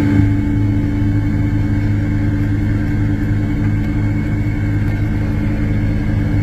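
Diesel engine of a 1989 Case IH 9150 four-wheel-drive tractor, a Cummins 855 six-cylinder, running steadily at a constant speed with a deep, even hum.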